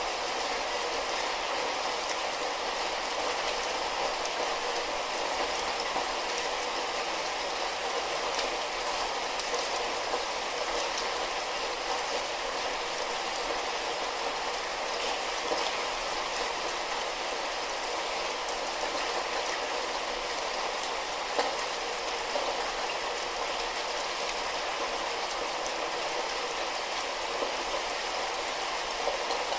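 Steady light rain: an even hiss of falling rain with scattered drop ticks, one a little sharper about 21 seconds in.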